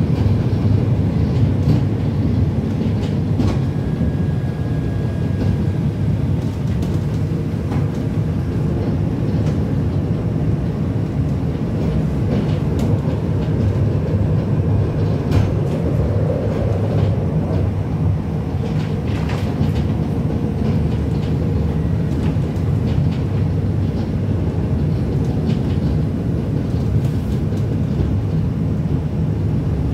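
Breda VLC tram running along the track: a steady low rumble of the wheels and running gear, broken by scattered sharp clicks from the rails.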